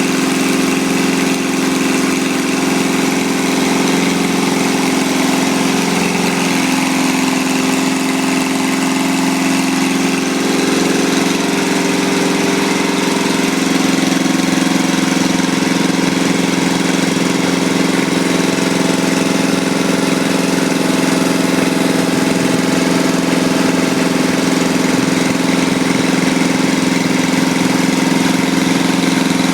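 Small Briggs & Stratton engine, fitted with a carburettor from a 6 hp pressure washer engine, running steadily, a little louder from about halfway.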